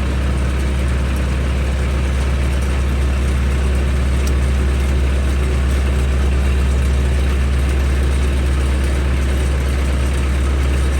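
Diesel engine idling steadily as it warms up in the cold.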